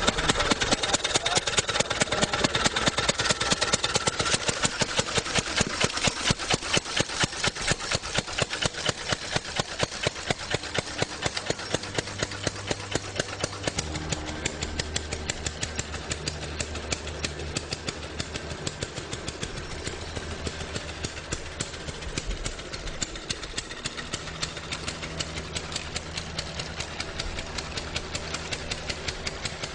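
Early motorcycle engine running slowly, its firing strokes coming as even beats a few times a second, with a low steady hum joining about halfway through.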